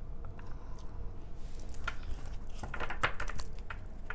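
Tarot cards being handled: scattered short papery clicks and flicks, bunched together about three seconds in.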